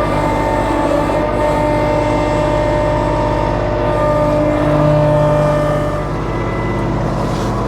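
Kubota B2650 compact diesel tractor engine running steadily, its pitch shifting slightly now and then.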